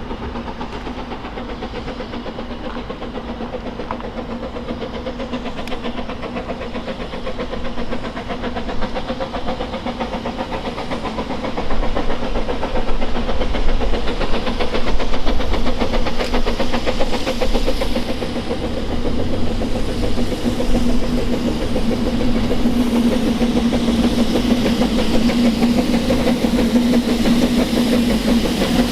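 Narrow-gauge train running along the line: a continuous rumble and rattle of wheels on rail under a steady hum, growing louder about twelve seconds in.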